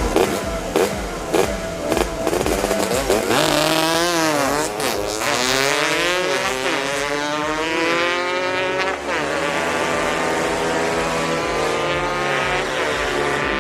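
Several motorcycle engines revving and running at speed, their pitches rising and falling and overlapping, with swoops like bikes passing by.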